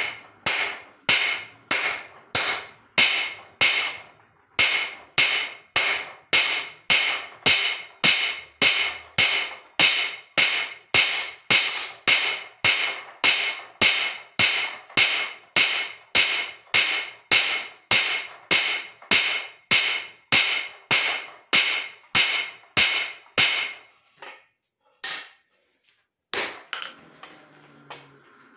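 Hand hammer striking hot leaf-spring steel on an anvil, about two ringing blows a second. The blows stop about 24 seconds in and start again just before the end.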